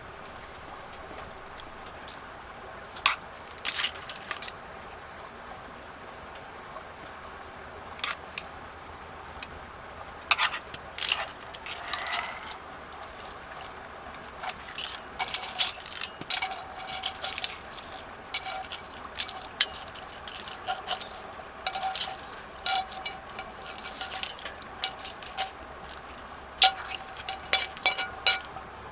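Scattered light clinks and clatters of cookware and utensils being handled, some single and some in quick runs, over a steady background hiss.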